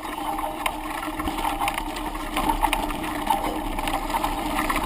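Bicycle ridden downhill on a trail, heard from a handlebar-mounted camera: steady tyre and wind noise with frequent small rattles and knocks from the bike over rough ground.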